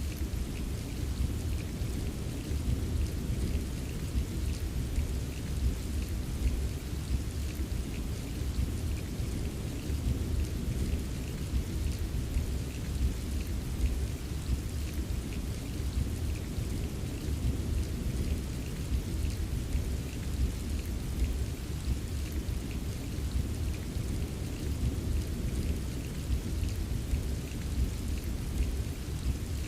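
Steady rain ambience: an even wash of rainfall with a deep, constant low rumble and scattered drop ticks, unchanging throughout.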